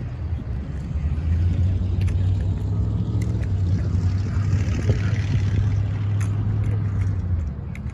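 A steady low rumble like a motor vehicle's engine running close by, fading out near the end, with a few sharp clicks and slaps scattered through it, as from a drill rifle being handled.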